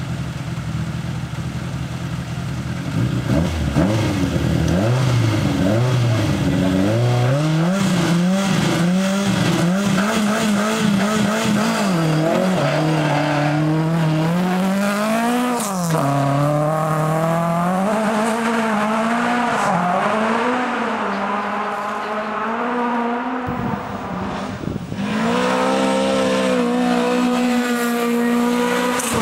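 Toyota Corolla GT rally car's twin-cam four-cylinder engine revving hard at full throttle, its pitch climbing and dropping again and again through gear changes and lifts. About three-quarters through it breaks off briefly, then comes back running high and steady.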